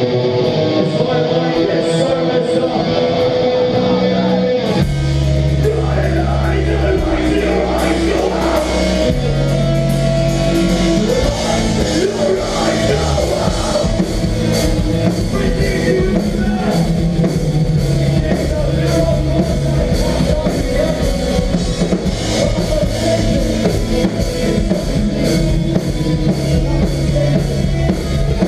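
Live melodic hardcore band playing an instrumental passage: guitar alone at first, then drums and bass guitar come in heavily about five seconds in, and the full band plays on.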